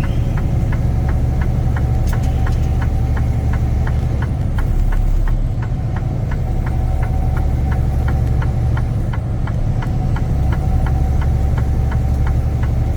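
Turn-signal indicator ticking evenly, about three clicks a second, over the steady low drone of a semi truck's engine inside the cab.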